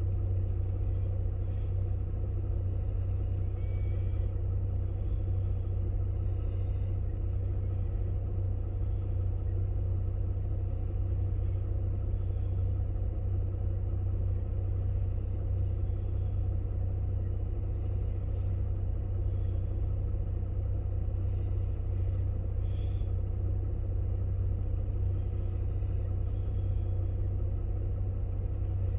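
A steady low rumble, with faint short chirps now and then.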